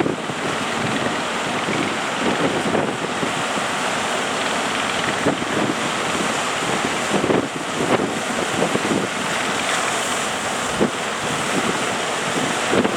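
Strong wind buffeting the microphone in irregular gusts over the steady rush of surf at a river mouth.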